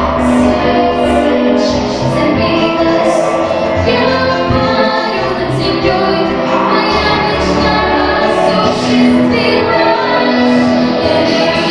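A young girl's voice singing a pop song over a recorded backing track, with long held notes, backing vocals and a steady beat.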